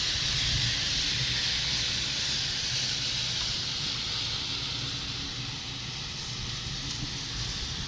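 Steady background hiss with a low hum underneath, easing off slightly toward the end.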